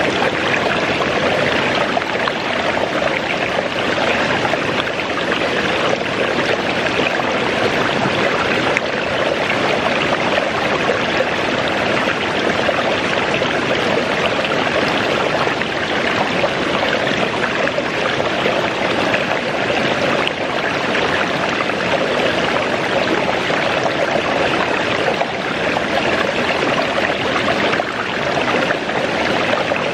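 A waterfall's water crashing and rushing steadily, as one continuous wash of noise.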